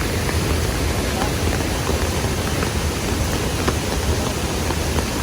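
Heavy rain falling steadily in rainforest: a continuous hiss, with scattered drops ticking close by.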